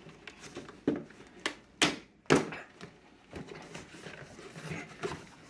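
A small gift box being opened by hand: a few sharp clicks and snaps with rustling between them, the loudest about two seconds in.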